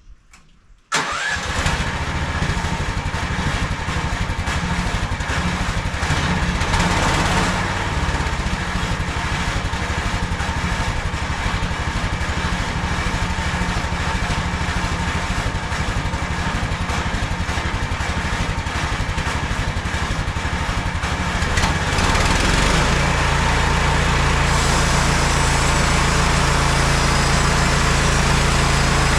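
MechMaxx SM32 sawmill's engine starting abruptly about a second in and running steadily; about 22 seconds in it turns steadier and a little louder.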